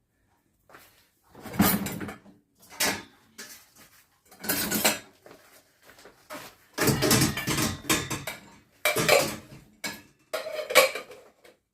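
Dishes and cutlery clinking and clattering as they are handled, in a string of separate bursts with short pauses between, busiest in the second half.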